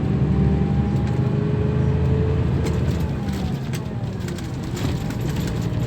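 Scania K340 bus engine running under way, a steady low drone, with a few clicks and rattles about three seconds in.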